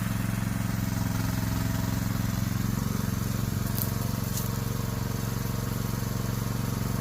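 Engine of the shed delivery vehicle running steadily at an even speed, with two light clicks about halfway through.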